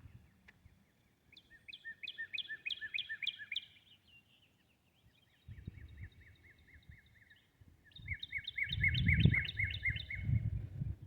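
Songbirds singing in runs of quickly repeated chirps, several overlapping, which the walker takes for American robins calling to each other. Soft footstep thumps join in during the second half.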